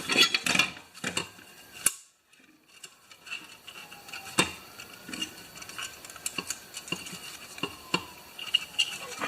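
Small metal parts of a Honda recoil starter clicking and clinking as they are handled and bent into line by hand, in scattered sharp clicks, with a louder click about two seconds in and another near the middle.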